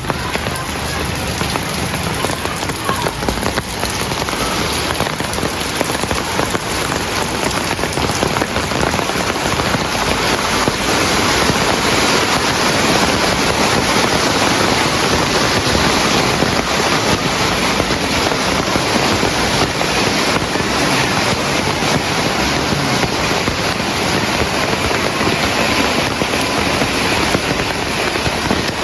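Heavy rain falling steadily: a dense, even hiss of many drops, a little louder after about ten seconds.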